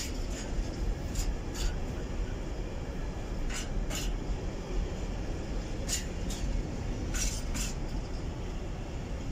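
Loaded container flat wagons of a freight train rolling past: a steady low rumble of steel wheels on rail, with sharp wheel clicks in pairs as each bogie's two axles cross a rail joint, a pair every second or two.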